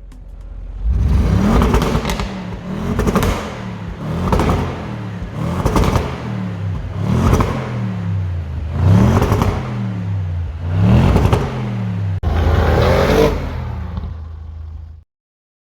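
Audi RS6's 4.0 TFSI twin-turbo V8 being revved about eight times, each rev rising and falling back, before the sound cuts off abruptly near the end.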